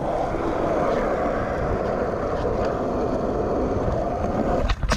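Skateboard wheels rolling steadily over concrete, then a sharp clack of the board near the end.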